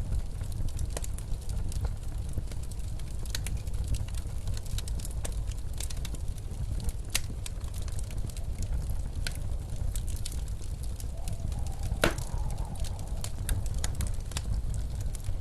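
Wood fire crackling and popping over a steady low rumble of blizzard wind, with one louder pop about twelve seconds in.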